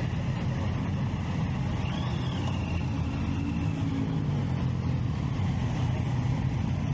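Motorcycle engine and road noise while riding, a Triumph Street Triple 675's three-cylinder engine at a steady speed. A faint high tone rises and falls about two seconds in.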